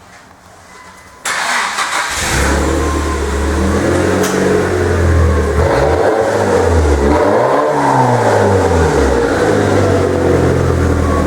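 Nissan S15 Silvia Spec R's SR20 four-cylinder engine cranking a little over a second in and catching, then running and being revved up and back down several times through a GP Sports aftermarket exhaust.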